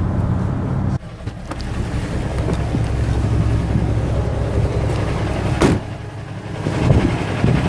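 Semi truck's diesel engine running steadily, heard from inside the cab as a low drone. The level drops suddenly about a second in, and there is one short knock a little before six seconds.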